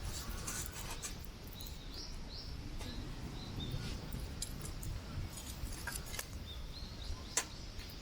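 Strong wind rumbling on the microphone over a crackling wood campfire, which gives a few sharp pops, the loudest near the end. Short bird chirps come and go in the first half.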